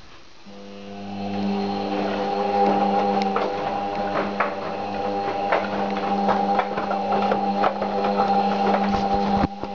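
Beko washing machine running: a motor starts about half a second in and hums steadily, with irregular clicks and knocks over the hum.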